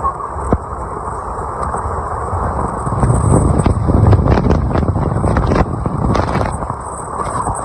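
Rigid inflatable boat (RIB) running flat out at top speed: wind buffeting the microphone over the drone of the engines, the rumble growing louder for a few seconds in the middle.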